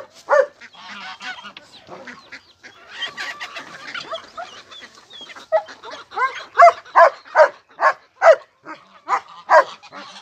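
Animal calls: a busy mix of calls, then from about halfway a run of loud, repeated calls, two to three a second.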